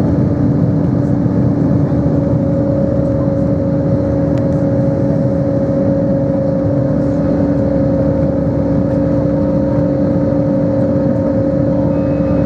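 Airbus A320-200's jet engines and airflow heard inside the passenger cabin: a loud steady drone with two steady hum tones running through it.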